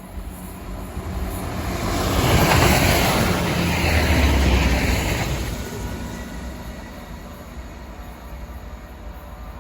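A train passing at speed: its noise builds about a second in, is loudest for a few seconds with a deep rumble, then fades away.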